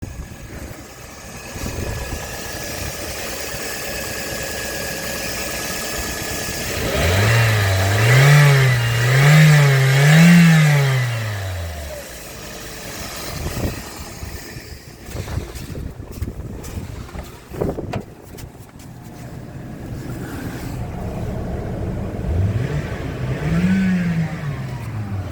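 Toyota 1NZ-FE 1.5-litre inline-four petrol engine idling steadily during a pre-sale test run, then blipped three times in quick succession and once more near the end, the revs rising and falling back to idle. A few sharp clicks sound in between.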